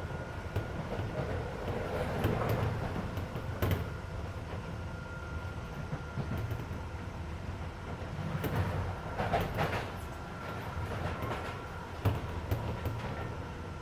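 Keisei 3400-series electric train running at speed, heard from inside the passenger car: a steady rumble of wheels and bogies, with rail-joint clacks now and then and a faint whine that fades in and out. The car's air conditioning runs underneath.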